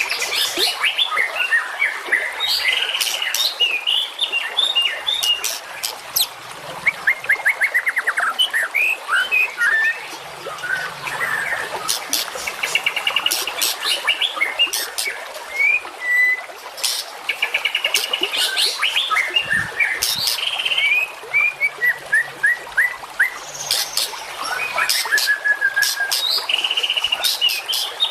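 Songbird song: a rapid, varied run of chirps, fast buzzy trills and short whistled slurs, broken by many sharp clicking notes.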